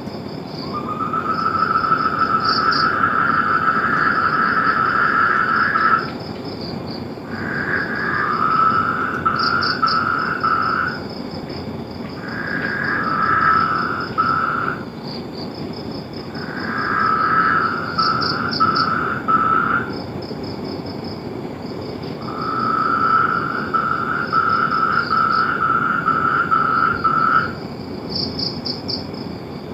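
Frogs calling in long pulsed trills of a few seconds each, one after another with short gaps, over a steady higher-pitched pulsing chorus, likely insects.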